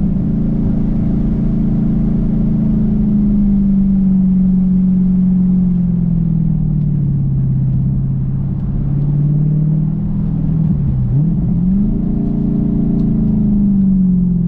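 Dodge Challenger engine and exhaust on the move, its note easing down in pitch over several seconds. About eleven seconds in the note drops sharply, then climbs back and settles again.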